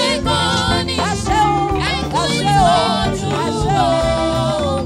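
Yoruba gospel music: a singing voice in long, sliding, wavering phrases over a band accompaniment with a steady beat.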